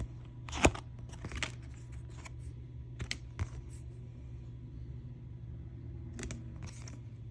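Oracle cards being handled and flipped, giving a few short clicks and soft taps of card stock, over a steady low hum.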